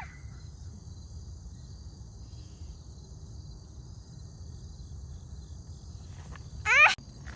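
Steady high-pitched chirring of an insect chorus, like crickets, over a low rumble. About a second before the end comes a short rising voice.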